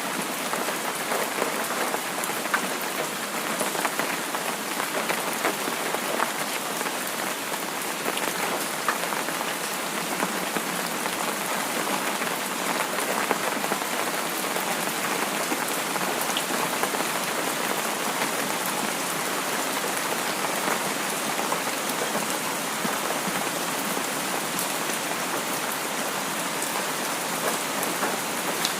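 Steady, even rain falling and pattering on a surface, with many small drop ticks and no let-up.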